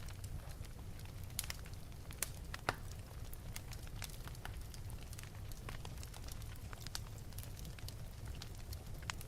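Wood fire burning in an open fireplace, crackling with frequent sharp irregular pops over a low steady rumble of the flames.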